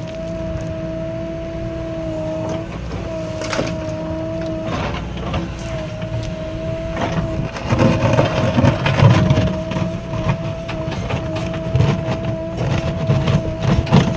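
JCB 3DX backhoe loader running as it loads mud into a tractor trolley: a steady whine over the diesel engine's rumble, with the rumble and knocks growing heavier from about halfway.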